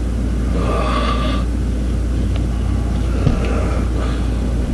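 Rustling and handling noise as a corded drill and its cord are packed into a bag, with a brief burst about a second in and a light click a little past three seconds, over a steady low hum.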